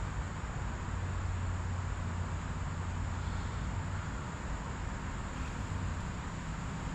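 Steady outdoor creekside ambience: a constant high-pitched insect chorus over an even hiss and a low steady rumble.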